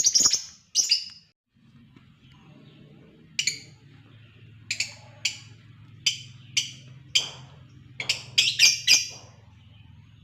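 Lovebirds giving short, shrill chirps, one or two at a time, then a quick cluster of calls near the end, over a low steady hum that starts about a second and a half in.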